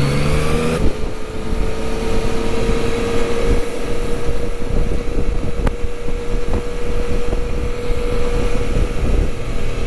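Yamaha Tracer 900 GT's three-cylinder engine pulling with rising revs for the first second, then holding a steady note at constant speed, with wind rushing over the microphone.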